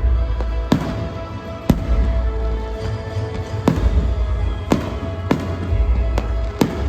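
Fireworks going off in a series of sharp bangs, about one a second, over loud music with a heavy bass line playing for the show.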